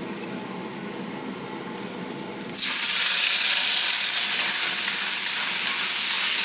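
Marinated chicken pieces dropped into hot olive oil in a cast iron wok, setting off a loud, steady sizzle that starts suddenly about two and a half seconds in. Before that, the heating oil hisses faintly.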